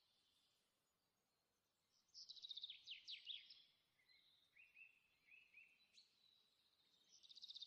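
Faint birdsong: a small songbird gives bursts of rapid, falling chirps about two seconds in and again near the end, with a softer run of lower repeated notes between.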